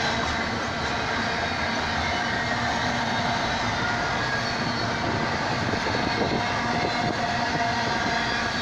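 Double-stack intermodal container train rolling past: steady noise of the well cars' steel wheels running on the rails, with faint steady ringing tones above it.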